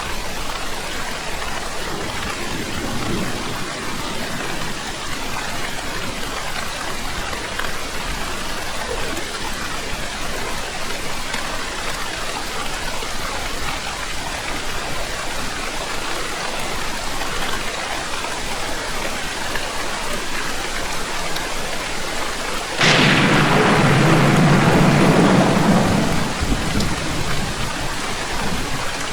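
Steady heavy rain falling, with a thunderclap that breaks in suddenly near the end and rumbles low for about three seconds before fading back under the rain.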